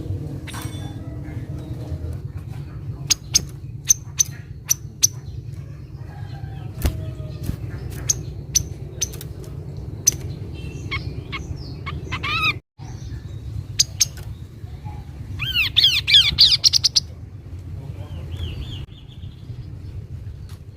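Calls of the kaso-kaso bird: a series of short, sharp, high chirps, then a quick burst of rapidly descending trilled notes about two-thirds of the way through, over a steady low rumble. The sound cuts out for an instant near the middle.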